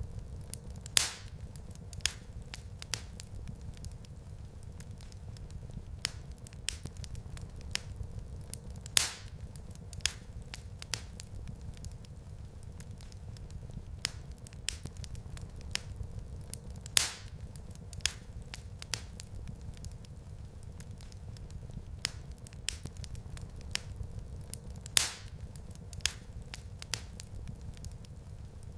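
Wood fire crackling in a fireplace: many small snaps and ticks over a low, steady rumble of the flames. A louder pop comes about every eight seconds.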